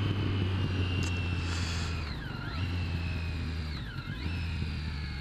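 Motorcycle engine running while riding. The engine note changes sharply twice, about two and four seconds in, as with gear changes, and otherwise slowly falls.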